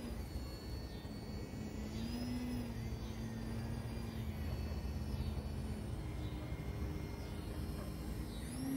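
E-flite Eratix electric foam plane's motor and propeller buzzing in flight, its pitch rising and falling as the throttle changes, over a steady low rumble.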